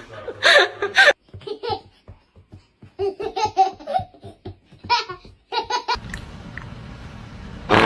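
A young child laughing in bursts of quick repeated 'ha-ha' pulses, several times over.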